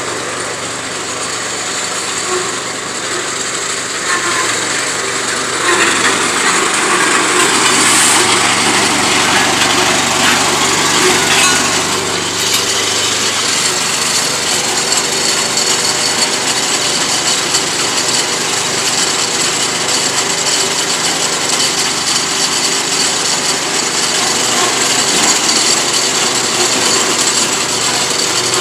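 Two-ton vibratory road roller running with its drum vibrating as it compacts a fresh hot-asphalt patch: a steady, loud mechanical rattle and engine noise that grows louder about five seconds in.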